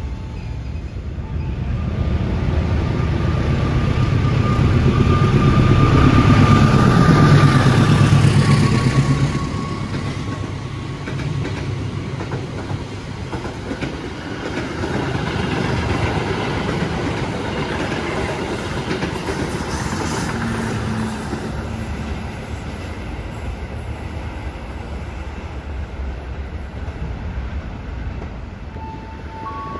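A passenger train passing at speed: it builds up, is loudest and drops in pitch as the front goes by about seven seconds in, then the carriages keep rumbling and clattering over the rail joints, slowly fading.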